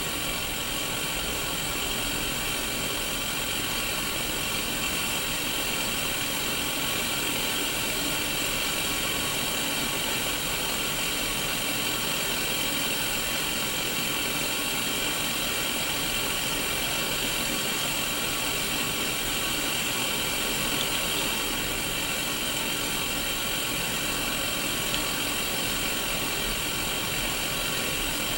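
Steady hiss of static from an untuned Sony Mega Watchman black-and-white mini CRT TV, even and unchanging, brightest in the upper middle.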